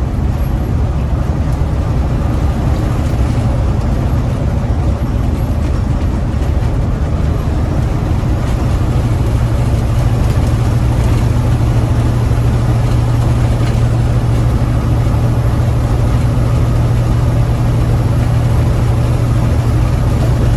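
Heavy truck's diesel engine running steadily as the truck drives, heard from inside the cab with the windows up: a low, continuous drone that grows louder about ten seconds in.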